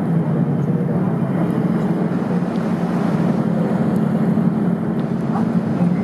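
Steady low hum and rumble inside an aerial tramway cabin as it travels along its cables, unchanging throughout.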